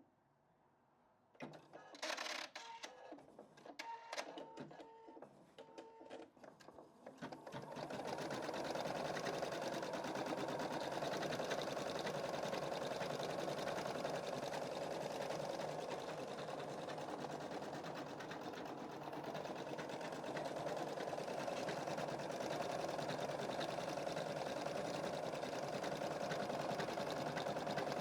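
Embroidery machine starting up with a few short beeps and clicks, then stitching at a steady, fast rate from about seven seconds in.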